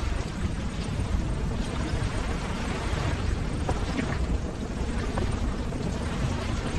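Ocean surf: a steady, even wash of waves, heaviest in the low range.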